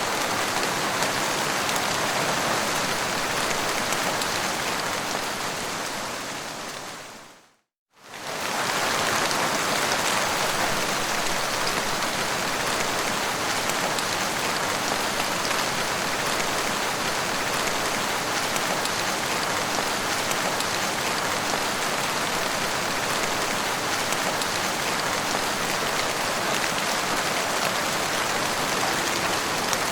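Steady, dense rainfall. It fades out to a moment of silence about seven seconds in, then fades straight back in, as at the join of a looped recording.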